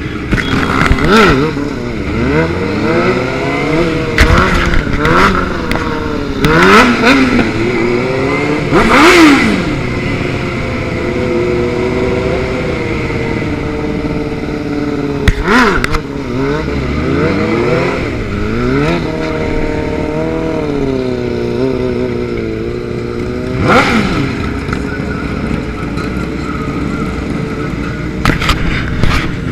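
Motorcycle engines revving, their pitch sweeping up and falling back over and over, with more than one engine heard at once. The loudest rev comes about nine seconds in.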